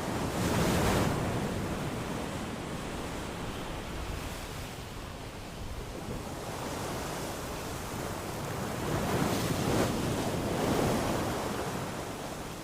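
Ocean waves breaking and washing on a shore, with one surge about a second in and another stronger swell later on.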